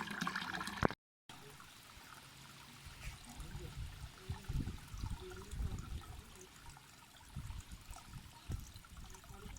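Water running and trickling: louder for the first second, then after a brief cut a quieter steady trickle with irregular low bumps underneath.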